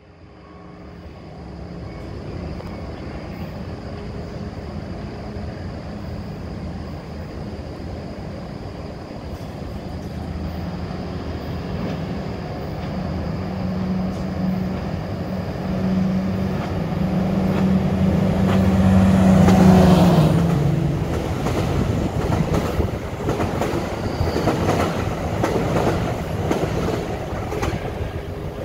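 Commuter train approaching and passing underneath: a steady engine hum that grows louder, peaks and drops slightly in pitch about two-thirds through, followed by the rhythmic clatter of wheels over the rail joints as the cars go by.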